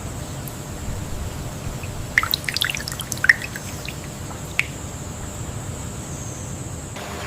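Mangrove wetland ambience: water dripping and trickling over a low steady rumble and a thin steady high whine. A quick flurry of short high ticks comes about two to three and a half seconds in, with one more a second later.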